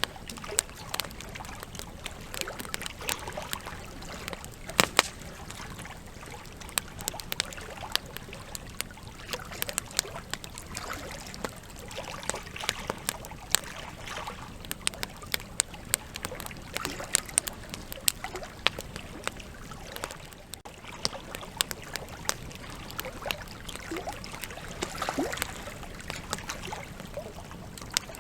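Wood campfire burning: irregular sharp crackles and pops from the logs over a steady hiss of the flames.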